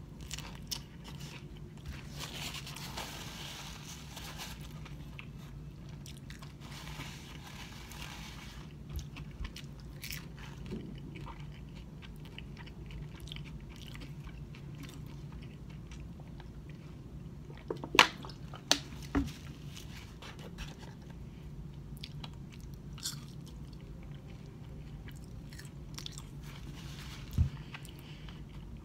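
Close-miked eating: biting into and chewing battered fried fish and fries, with crisp crunching in the first several seconds. A few sharp mouth or container clicks come past the middle and once near the end, over a steady low hum.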